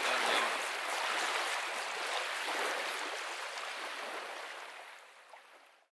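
Water splashing and sloshing as sea bass are rinsed and cleaned by hand in shallow sea water, with small splashes and drips throughout, fading out near the end.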